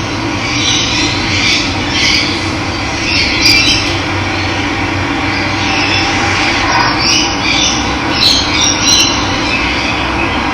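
Running water with a steady rush, and wild birds chirping and calling over it at irregular moments.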